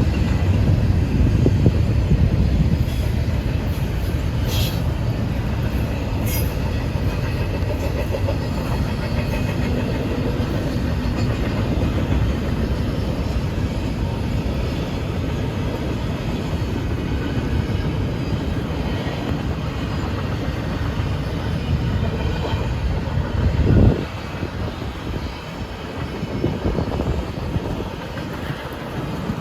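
Freight train cars rolling past with a steady low rumble of wheels on rail, with a few brief high wheel squeals a few seconds in. A sharp loud bang comes about 24 seconds in, after which the rumble is a little quieter.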